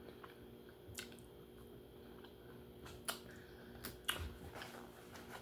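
Close-miked eating: soft chewing with a few faint, sharp clicks, one about a second in and several around three to four seconds in.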